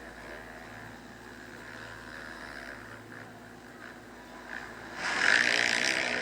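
Motocross bike engines droning faintly in the distance, then about five seconds in a dirt bike's engine comes in loud and close, revving.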